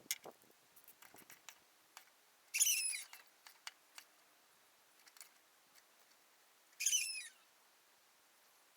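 A bird calls twice, about four seconds apart. Each call is a short falling note, and faint light clicks are scattered between the calls.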